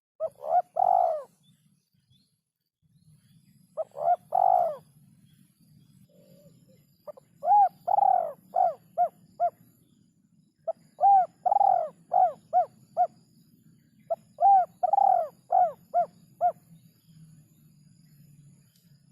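Spotted dove (derkuku) cooing in five phrases. The later phrases are a few longer coos followed by a quick run of short, clipped coos. A faint low hum sits underneath.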